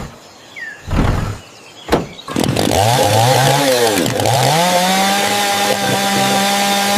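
A few short thumps, then a small engine starts up, revs up and down unevenly, dips, and settles into a steady high-pitched run.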